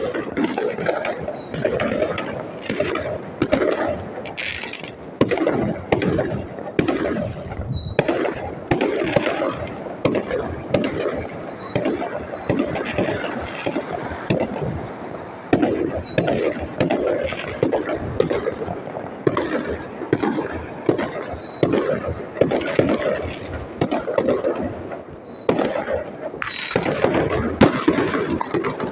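Fireworks going off: a steady run of bangs and crackles, with pairs of high whistles falling in pitch every two to three seconds.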